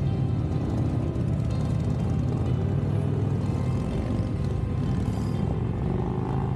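Motorcycle engine running steadily while riding, a low-pitched drone.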